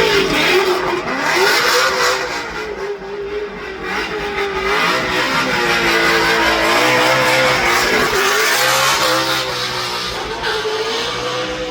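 A performance car's engine running hard under load, its pitch climbing and dropping back several times as the revs rise and fall.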